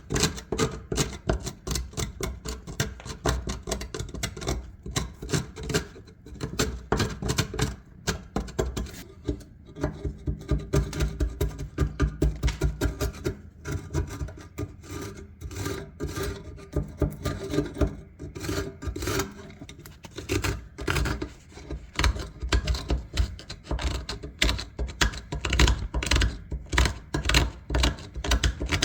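Flat-blade screwdriver scraping and chipping thick rust scale off the handle and pivot of a cast-iron antique ice claw: rapid, irregular metal-on-metal scratches and clicks, with a spell of quick, even strokes about ten seconds in.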